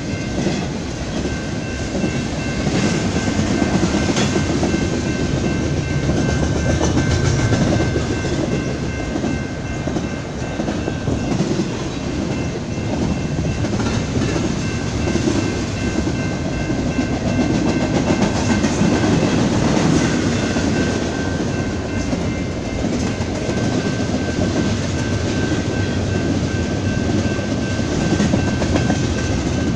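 BNSF double-stack intermodal freight train rolling past: a continuous heavy rumble of container well cars on the rails that swells and eases a little. Faint high steady tones come and go through it.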